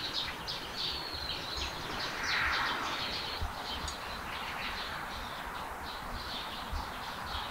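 Small birds chirping repeatedly with short, high notes over steady outdoor background noise, with a brief swell of hiss about two seconds in.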